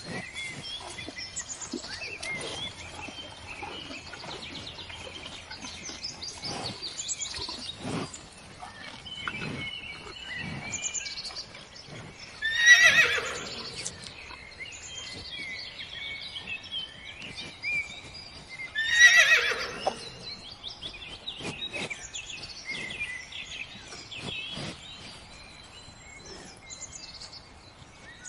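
Horse whinnying twice, several seconds apart, each call falling in pitch, with birds chirping throughout.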